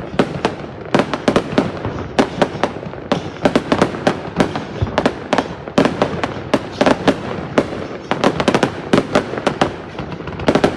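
Fireworks going off in a continuous barrage of many sharp bangs and crackles in quick succession.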